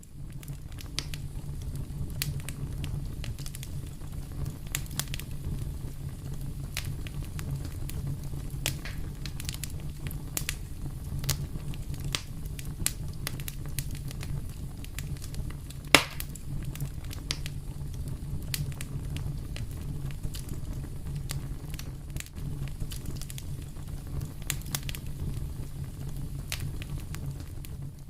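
Fire burning in a fireplace: a steady low rumble of flames with frequent sharp crackles and pops, and one loud pop about halfway through.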